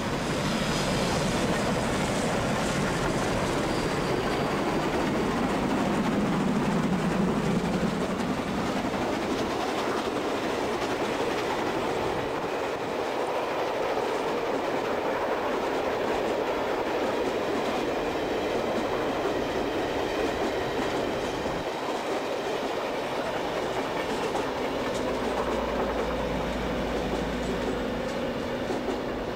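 A vintage steam-hauled passenger train passing close by: the steam locomotives go by first, loudest in the opening seconds, then the carriages roll past with wheels clacking over the rail joints.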